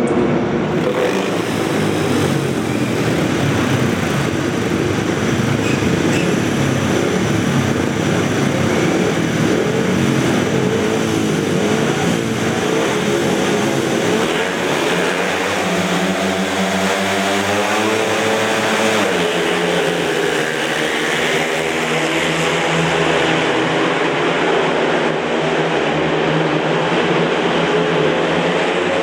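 Several speedway motorcycles racing. Their engines run loudly throughout, and about halfway through their pitch rises and falls several times.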